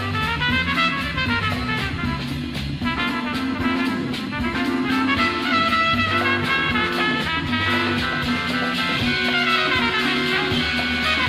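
Recorded late-1960s jazz-rock band music: an instrumental passage with horns playing quick runs of notes over bass and drums.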